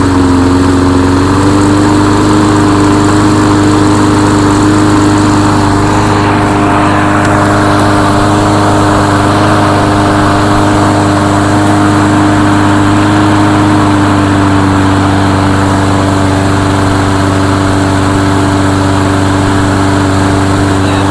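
Briggs & Stratton 5 hp single-cylinder engine on a Murray push lawn mower, running steadily at constant speed with its throttle cable not attached. It sags slightly in speed at the start, then holds steady.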